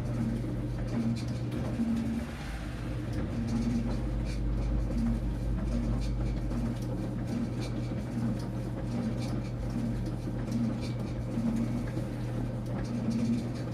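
Enxuta Luxo Soft compact washing machine running a wash of towels: a steady motor hum under a repeating churning pulse, with scattered light clicks.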